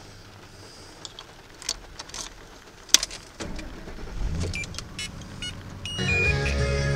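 Clicks and knocks from inside a vehicle, the loudest about three seconds in, then a low engine rumble that builds from about halfway through. Music comes in loudly about six seconds in.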